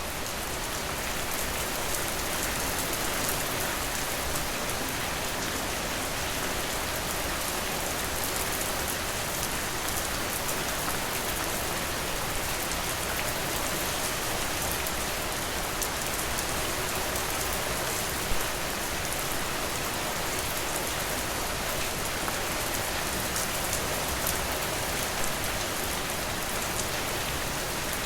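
Steady rain falling, an even hiss with scattered sharper drop taps, and one slightly louder tap about two-thirds of the way through.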